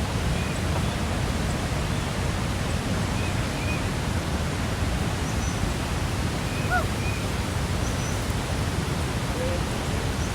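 A waterfall rushing in a steady, even roar of falling water, with a few faint short chirps now and then over it.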